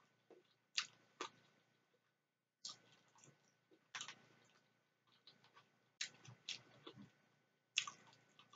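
Close-miked eating of macaroni pasta salad: faint chewing and wet mouth sounds, broken by sharp clicks every second or two while a metal fork picks at the salad in a plastic container.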